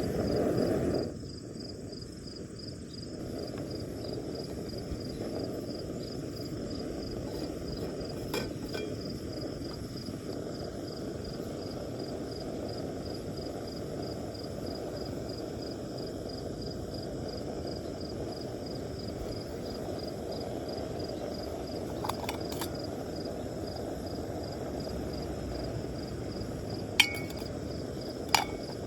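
Steady low rushing noise with a few sharp, brief clinks of cookware: one about a third of the way in, a close pair a little past the middle, and the two loudest near the end.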